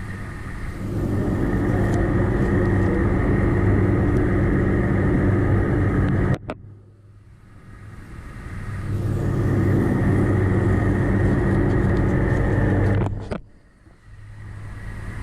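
A vehicle engine running at a raised, steady speed twice. Each spell builds over about a second, holds for several seconds, and then cuts off abruptly.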